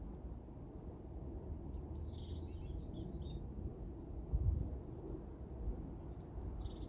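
Small songbirds chirping, a short cluster of high calls around the middle and a few brief ones near the end, over a steady low rumble of wind on the microphone.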